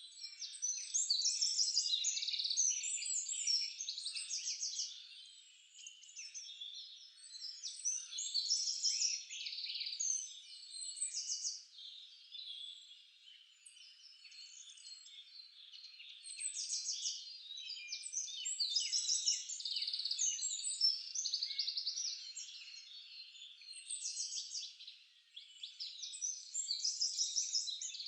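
Songbirds singing in a forest chorus, overlapping high phrases of rapid trills and chirps that come and go every few seconds.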